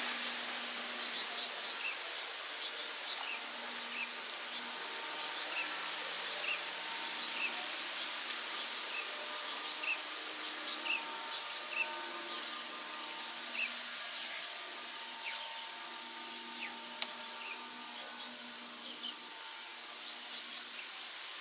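Outdoor ambience: a steady high hiss with short chirps repeating about once a second, likely insects or birds, and one sharp click about three-quarters of the way through.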